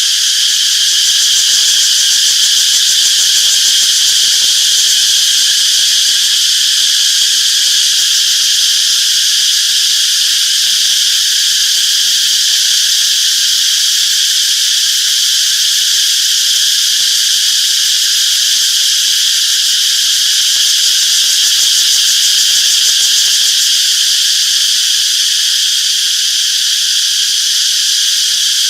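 A dense chorus of cicadas buzzing steadily, a high, even drone without pauses.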